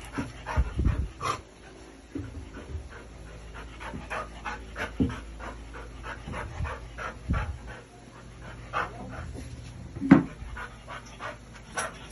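A dog panting in quick, regular breaths, about three or four a second, with a few sharp knocks, the loudest about ten seconds in.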